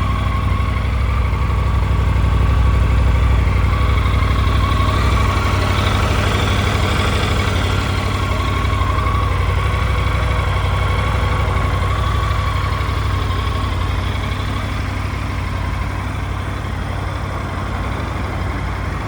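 Triumph Tiger 900 GT Pro's three-cylinder engine idling steadily, getting slightly quieter near the end.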